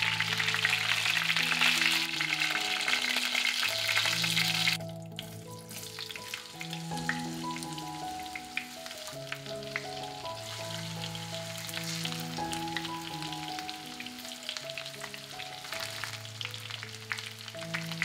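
Loud, even sizzle of chicken thighs frying in oil in a pan. About five seconds in it gives way to a quieter, crackling sizzle of potato chunks frying in hot oil. Soft background music with held notes plays underneath.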